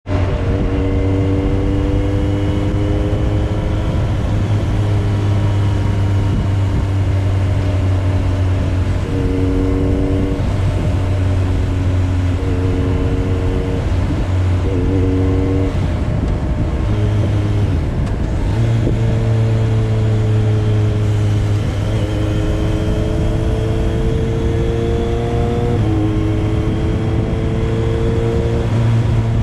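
Motorcycle engine running steadily while riding. Its pitch shifts up and down in steps every few seconds as the rider changes gear and speed, over a constant rush of noise.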